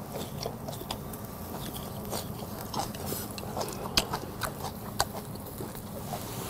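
A person chewing a mouthful of noodles close to the microphone: wet smacks and mouth clicks, with a couple of sharper clicks about four and five seconds in.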